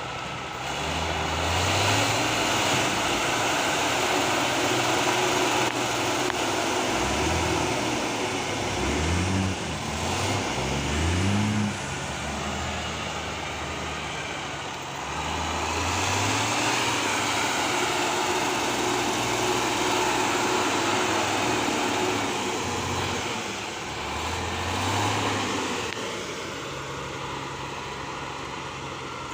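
Heavy diesel truck engine labouring and revving, its pitch climbing in several quick surges around the middle and settling again, over a steady hiss.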